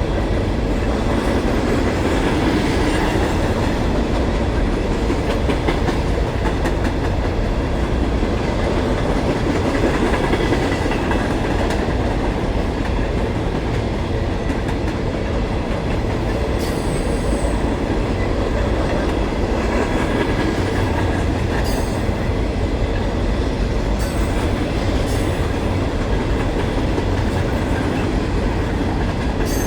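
Empty freight train cars (coal gondolas and hoppers) rolling past, wheels clicking over the rail joints in a steady rumble, with a few brief high-pitched squeals or clanks in the second half.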